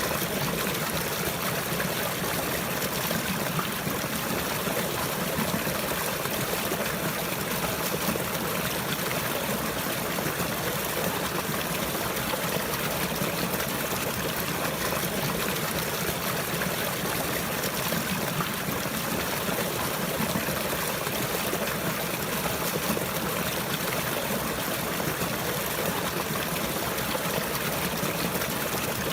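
Running water trickling and flowing steadily, an even wash without breaks or changes.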